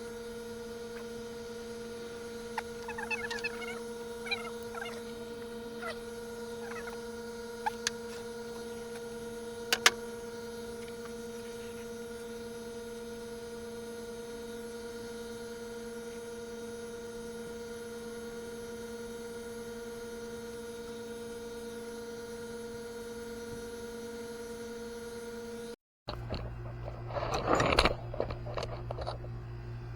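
Steady electrical hum with a few light clicks and ticks scattered through it. Near the end the hum stops abruptly and a lower hum takes over, with a short clatter.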